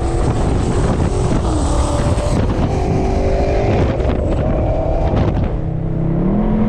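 Car engine running loudly under load, its note shifting and climbing near the end.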